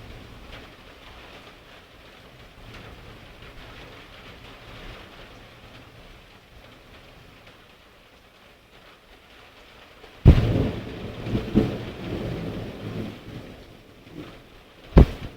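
Steady rain during a thunderstorm. About ten seconds in, a close thunderclap cracks suddenly and rumbles for a few seconds, and a second short sharp crack comes near the end.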